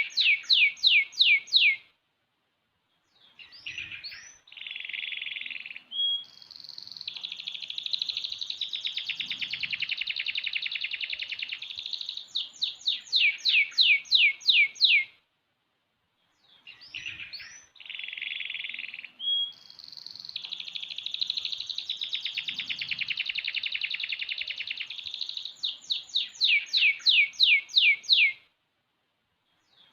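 Six-month-old domestic canary singing long song bouts of fast trills and rolls, each bout closing with a run of loud, rapidly repeated swooping notes. Two full bouts, separated by brief pauses.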